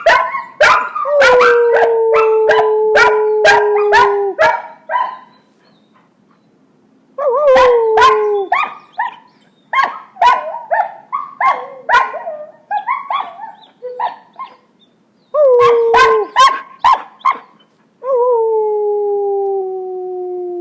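Puppies howling in long, slowly falling howls, mixed with sharp barks and short yips that sometimes overlap a howl. Long howls come near the start and again near the end, with a stretch of rapid yipping in the middle.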